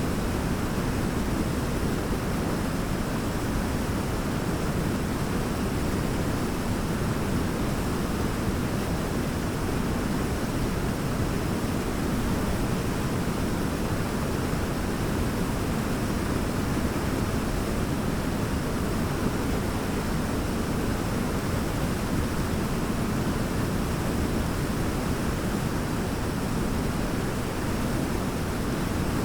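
Large waterfall: a steady, deep rush of falling water with no breaks or changes.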